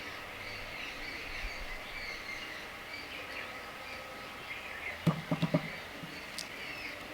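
Outdoor ambience with small birds chirping steadily in the background. About five seconds in come four quick sharp knocks in a row, the loudest sound, with a single faint high click about a second later.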